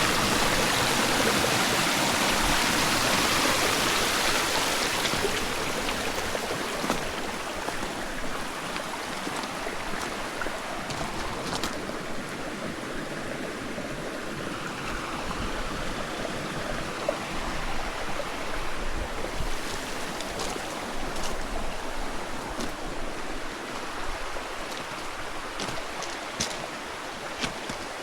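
Small snowmelt stream running, loud for the first few seconds and then fading to a softer rush. Scattered light clicks sound over it in the second half.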